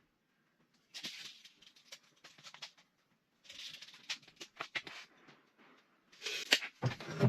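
Bouts of scraping and clicking from handling material, then near the end a power saw's motor starts up loudly.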